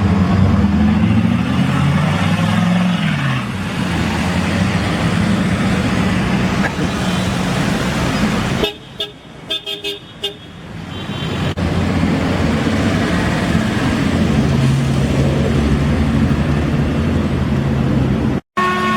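Classic cars driving past with their engines revving and running, and a car horn tooting a few short times about nine seconds in.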